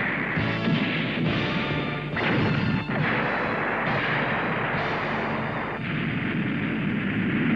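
Cartoon space-battle sound effects, a string of blasts and explosions, mixed with dramatic soundtrack music.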